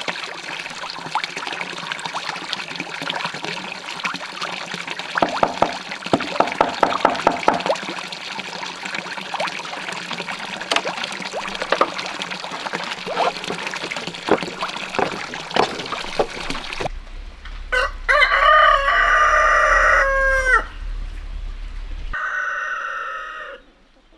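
Running water with a scatter of small knocks and clatters, then, after an abrupt change, a rooster crowing: one long crow that drops in pitch at the end, and a second, shorter crow near the end.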